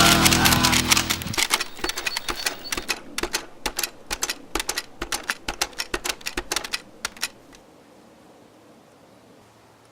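Music fading out in the first second or so, then a fast, irregular run of sharp clicks lasting about six seconds that stops abruptly, leaving only a faint background.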